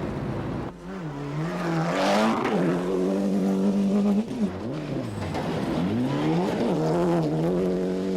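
Rally car engine revving hard on a stage, its pitch climbing and dropping several times as the driver changes gear and lifts, with a short burst of noise about two seconds in.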